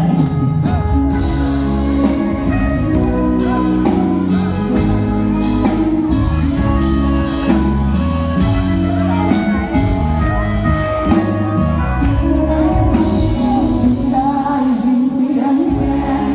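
Live luk thung–mor lam band music with a steady drum beat and a stepping bass line; a voice sings near the end.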